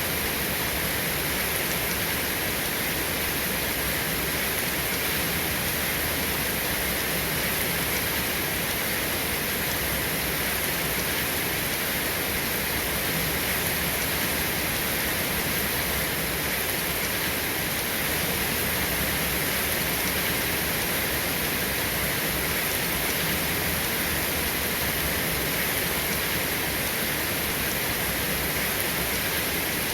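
Steady rain, an even hiss with no breaks or single loud strikes.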